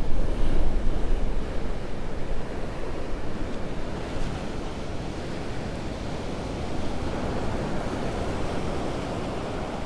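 Gulf surf breaking and washing ashore under a strong onshore wind, which buffets the microphone; the wind gusts are heaviest in the first two seconds, then settle to a steady rush of wind and waves.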